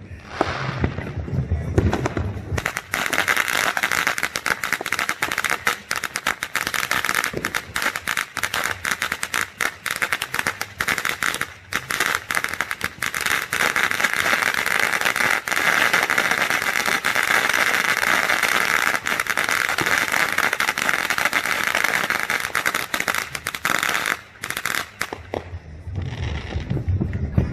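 Fireworks crackling: a dense, unbroken run of rapid pops that starts about three seconds in, goes on for about twenty seconds and stops shortly before the end.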